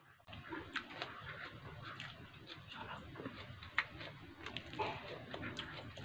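Close-miked eating sounds: chewing a mouthful of food with wet smacks and scattered sharp mouth clicks, starting suddenly just after the start.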